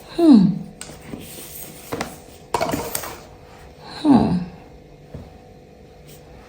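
Two short vocal calls, each falling in pitch, one at the start and one about four seconds in, with a brief rustle of packaging between them.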